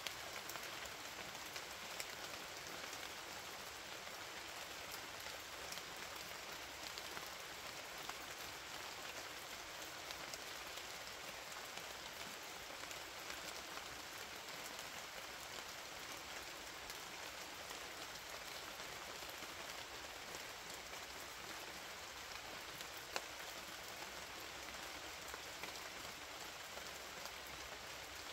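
Steady rainfall: an even hiss of rain on a surface, with scattered sharp drip ticks and one louder tick late on. No thunder.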